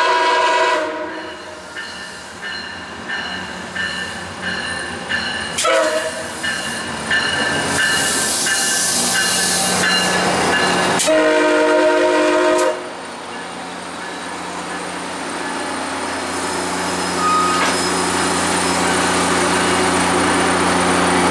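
MARC commuter train passing close by, sounding its horn three times: a blast at the start, a short one about six seconds in, and a longer one near halfway. Wheels clatter on the rails between the blasts, and after the last blast the locomotive's diesel engine hums steadily as it goes by.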